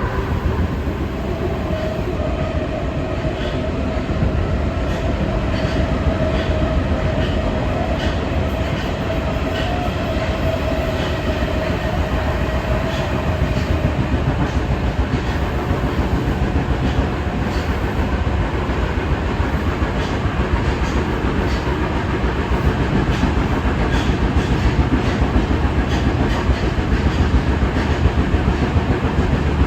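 Kita-Osaka Kyuko 9000 series electric train running at speed, a steady rumble of wheels on rail with faint regular clicks over the rail joints. A steady motor whine fades out about halfway through.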